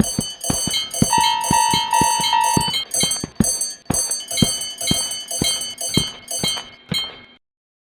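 Railroad crossing warning bell clanging in an even rhythm of about three strikes a second. A steadier beeping tone pulses four times alongside it about a second in. The clanging cuts off suddenly near the end.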